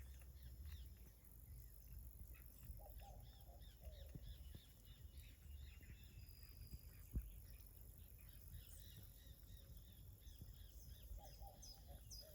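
Faint chirping of small songbirds, many short high calls, over a low wind rumble. A single sharp click comes about seven seconds in.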